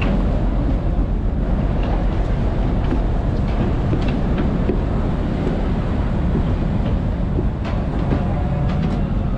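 Steady low rumble and noise of a large passenger ship underway, its engines running, with a few faint clicks.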